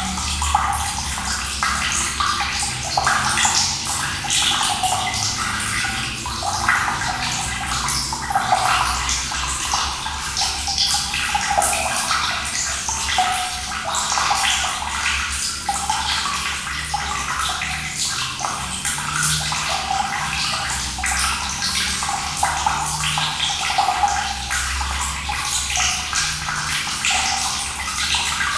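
Running water pouring and splashing steadily, with a constant rush and a shifting, bubbling texture.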